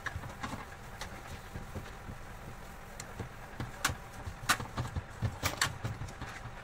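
Scattered sharp clicks and knocks over a low steady rumble, coming more often in the second half.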